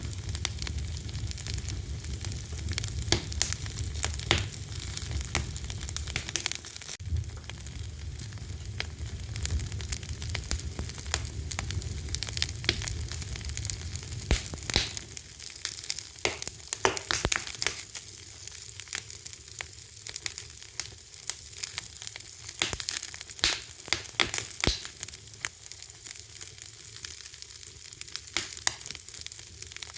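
Fire crackling: many sharp pops and snaps over a steady hiss. A low rumble under it in the first half fades away about halfway through.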